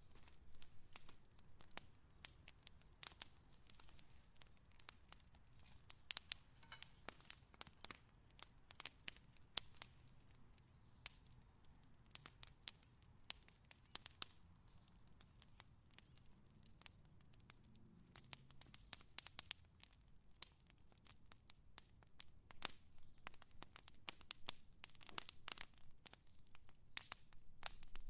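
Fire crackling: irregular sharp pops and snaps, several a second, over a faint low rumble.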